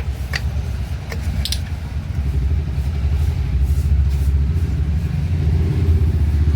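An engine running with a steady, pulsing low rumble that grows a little louder about two seconds in, with a couple of sharp clicks in the first two seconds.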